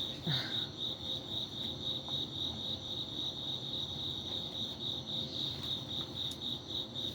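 A cricket chirping in a steady, even pulse, several chirps a second, with a brief murmur of a woman's voice just after the start.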